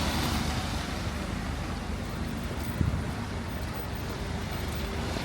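Steady low rumble of city street traffic under an even hiss of rain, with one short thump a little under three seconds in.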